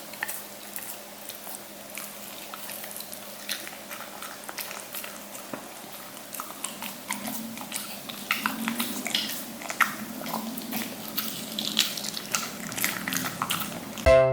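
A Welsh corgi chewing and eating, with many quick irregular mouth clicks and smacks that grow busier about halfway through.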